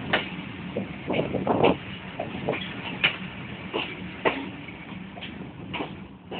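Railway carriage rolling slowly, with irregular sharp metallic clanks and rattles over a steady low hum.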